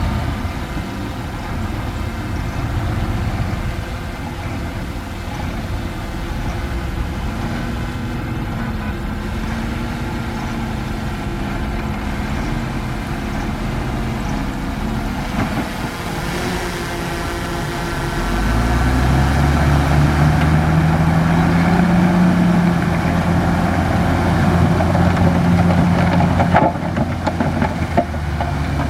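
Large bulldozer's diesel engine running, then revving up about two-thirds of the way through, its note rising and getting louder as it works under load.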